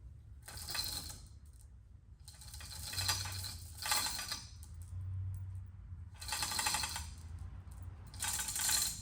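Hand-pulled chain hoist clicking and rattling in four bursts of a second or two as a heavy engine part is lifted, over a steady low hum.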